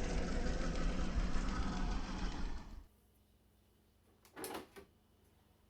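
Traxxas TRX-4 RC crawler's motor and drivetrain running, with the clicking the owner traced to the transmission. The drivetrain stops about two and a half seconds in, and a short scuff follows a couple of seconds later.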